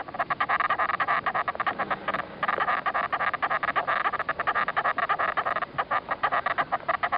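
An animal sound made of rapid short pulses, many a second, with a brief break a little over two seconds in.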